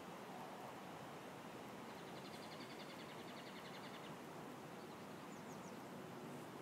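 Faint steady outdoor hiss, with a small bird's rapid trill about two seconds in lasting nearly two seconds, then three quick high chirps about five seconds in.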